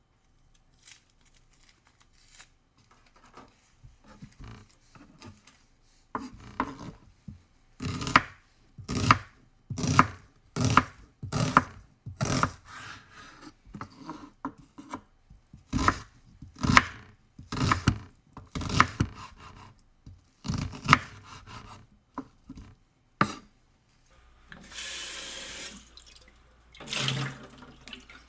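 Kitchen food preparation at a sink: a series of separate knocks and rubs about a second apart, then a tap running briefly near the end.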